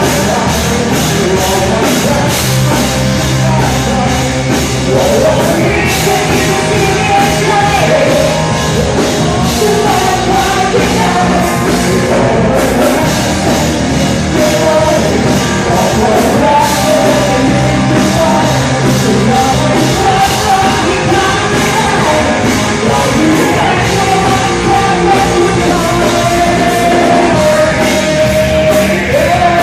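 Live band playing a rock song, with a sung lead vocal over a steady drum beat.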